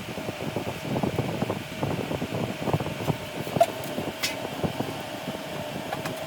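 Workshop machinery noise: a continuous irregular clatter of small knocks and clicks over a steady hum, with a couple of sharp metallic pings in the middle.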